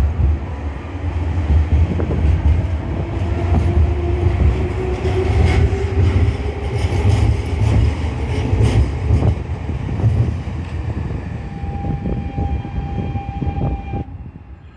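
A Nankai Koya Line electric train running along the track, with a loud rumble, a motor whine that rises in pitch over the first several seconds, and clicking from the wheels over rail joints. Near the end a steady high tone rings briefly, and the sound cuts off suddenly just before the end.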